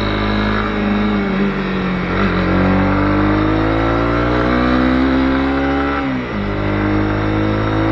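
Honda CB250R's single-cylinder engine pulling under acceleration. The pitch climbs steadily from about two seconds in, then falls sharply about six seconds in at an upshift and settles.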